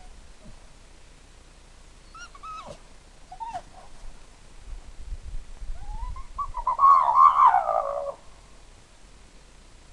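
A dog whining: two short, high whimpers that rise and fall, then a longer, louder wavering whine near the end.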